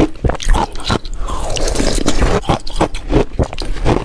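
Ice being chewed close to the microphone: an irregular run of sharp crunches and grinding scrapes, several a second.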